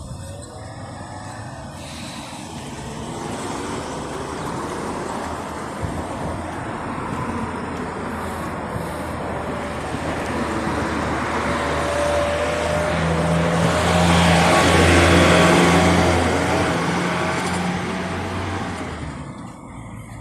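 Road traffic noise that builds up and peaks about three-quarters of the way through, with a low engine hum as a motor vehicle passes close, then fades away.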